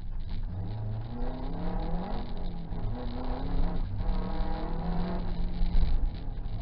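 Subaru rally car's engine heard from inside the cabin, revving hard under acceleration. Its pitch climbs and drops sharply about three times as it shifts up through the gears.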